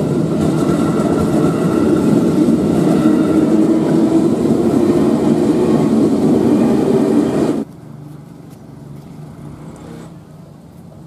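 KRL commuter electric train passing close by over a level crossing, a loud steady rumble of the train running on the track. It cuts off suddenly about seven and a half seconds in, leaving only faint background noise.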